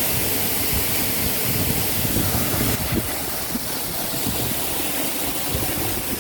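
Waterfall pouring close by: a loud, steady rush of falling water, with an uneven low rumble underneath.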